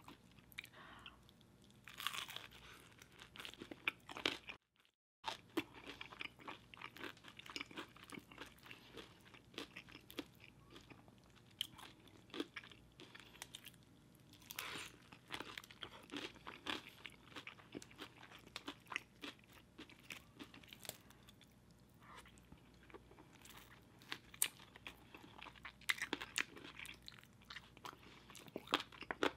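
Close-miked chewing of extra crispy fried chicken coated in cheese sauce: many short crunches of the crisp breading crackling between quieter chewing. There is a brief cut to silence about five seconds in.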